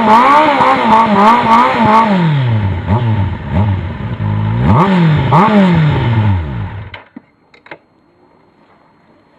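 2009 Kawasaki Z750's inline-four engine through a Laser aftermarket exhaust, blipped rapidly several times, settling toward idle, then revved sharply twice more. The sound cuts off suddenly about seven seconds in.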